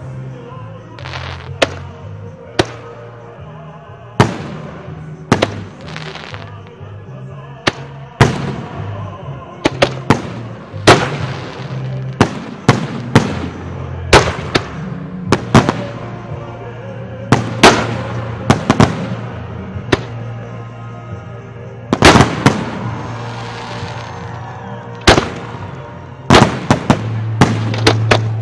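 Aerial firework shells bursting in a long, irregular series of sharp bangs, densest near the end. Music plays steadily underneath.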